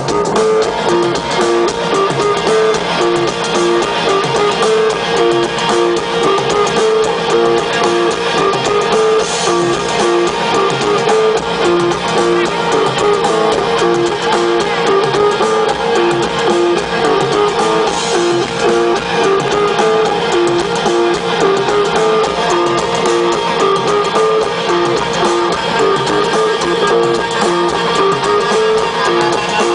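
Instrumental band music led by guitar, with a riff that keeps alternating between two notes at a steady pace and no singing.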